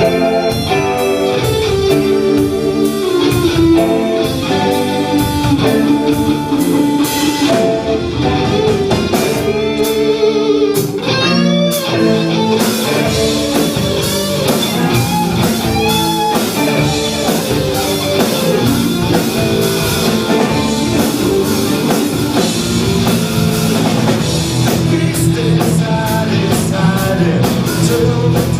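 Live rock band playing, electric guitar carrying the melody over drums and bass, the guitar bending notes up and down about ten seconds in.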